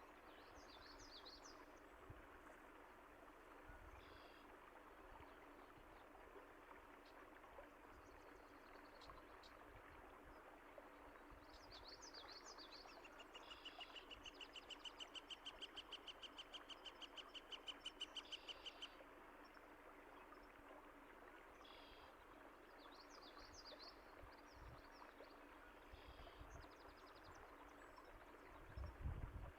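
Faint, steady rushing of a stream with scattered bird chirps. A rapid trilling call runs for about six seconds in the middle, growing louder. There is a brief low thump near the end.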